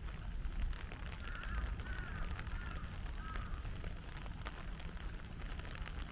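Heavy rain falling, with a steady hiss and many drops pattering, while a bird calls four times in quick succession about a second in.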